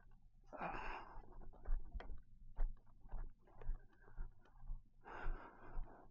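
A rider's heavy breaths close to the microphone, two rushes about a second in and about five seconds in, over a run of irregular clicks, knocks and low thumps.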